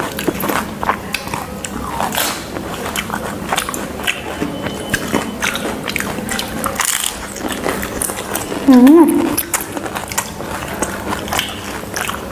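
Close-miked biting and chewing of crisp puchka (pani puri) shells, with many short crunchy cracks. About nine seconds in comes a short, loud vocal sound, the loudest moment.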